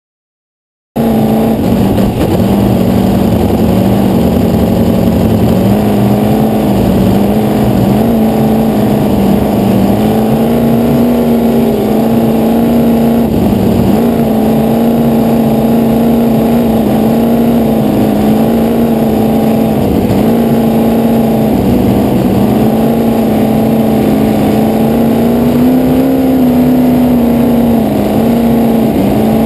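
Fuel-injected V8 race-boat engine running on E85 at steady high revs, starting about a second in; its pitch sags a little and picks up again every few seconds.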